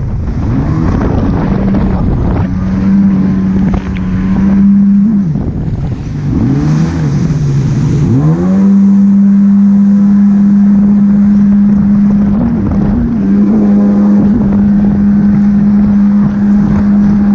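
Jet ski engine running at a steady pitch over rushing water and wind noise. About five seconds in, the engine note dips and wavers as the throttle eases, then climbs back to its steady pitch a little after eight seconds.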